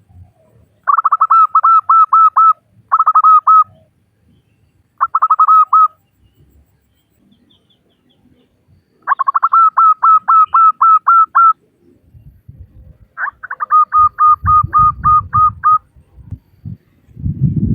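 Zebra dove (perkutut) calling in five quick bouts of rapid, evenly repeated staccato notes, about five a second, presented as a female's call to draw a male. Low rumbling bumps come in during the last few seconds.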